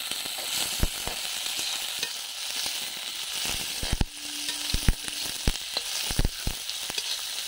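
Diced carrots, peas and cashews frying in ghee in a metal kadhai, a steady sizzle. A perforated metal ladle stirs them, clinking and scraping against the pan a dozen or so times, mostly in the second half.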